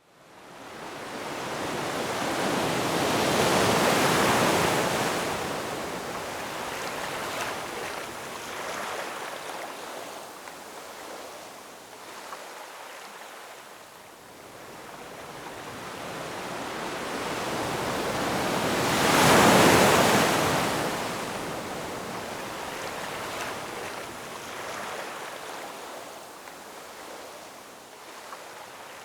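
Ocean waves breaking and washing on a shore, fading in at the start. Two larger waves break, one a few seconds in and a bigger one about two-thirds through, with quieter surf washing in between.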